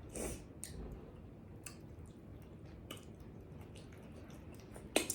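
Faint close-up chewing of food, with scattered small wet mouth clicks and one sharper click near the end.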